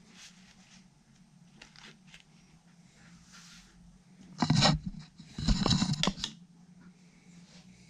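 Two short bursts of scraping handling noise from guitar-assembly work, about four and a half and five and a half seconds in, over a steady low hum.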